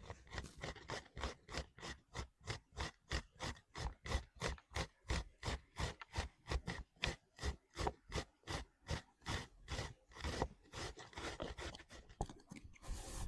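Steady rhythmic scraping strokes, about three a second, from food being worked by hand; they stop just before the end.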